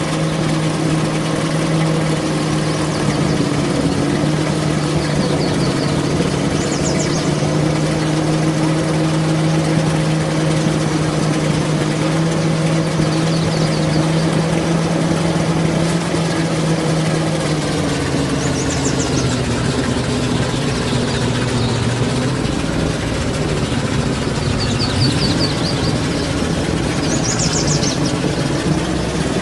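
Truck engine running steadily, its pitch dipping briefly about two-thirds of the way through. A few short, faint high chirps come and go over it.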